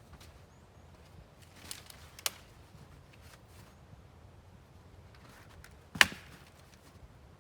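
Two sharp knocks about four seconds apart, the second much louder, over faint scattered ticking.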